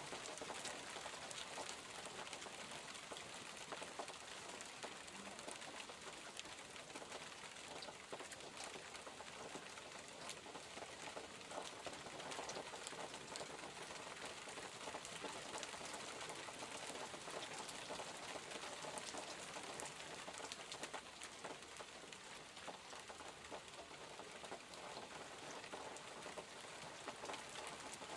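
Steady, soft rainfall, with many small drop ticks falling on surfaces in a continuous hiss.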